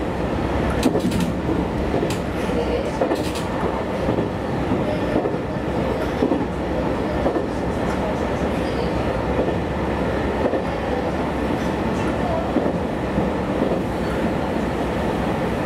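JR Kyushu YC1 series diesel-electric hybrid railcar running at speed, heard from inside the car behind the driver's cab: a steady rumble of wheels on rail, with a few clicks in the first few seconds.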